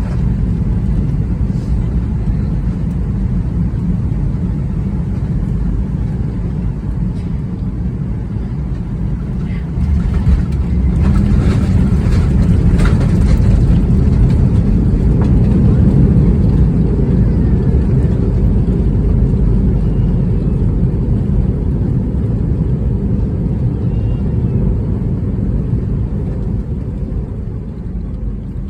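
Boeing 737 cabin noise during a landing: a steady low roar that steps up about ten seconds in, at touchdown, stays loud for several seconds with added hiss, then slowly eases off as the jet slows.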